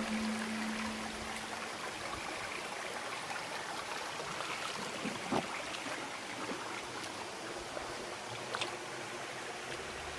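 Stream water flowing steadily, with a couple of faint clicks around the middle and near the end.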